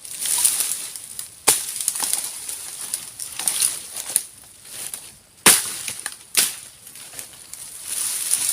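Plastic sheeting crackling and flapping as it is shaken out and handled, with sharp snaps about one and a half seconds in and again around five and a half and six and a half seconds in.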